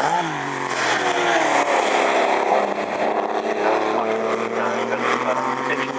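Racing sports car engines running at speed. Just at the start an engine note dips and comes back up as a car passes, then an engine note climbs slowly and steadily as a car accelerates.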